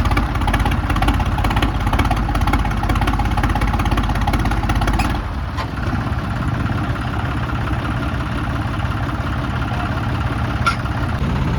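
Tractor engines running steadily. About five seconds in the sound changes abruptly and becomes a little quieter, then continues steadily.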